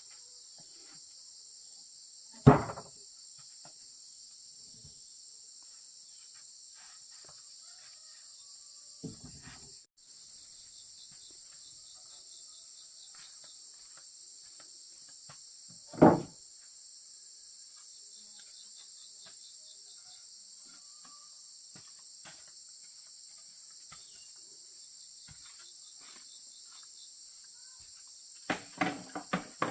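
Steady high-pitched chorus of forest insects, with loud single knocks about two and a half seconds in and again around sixteen seconds, and a quick run of several knocks near the end.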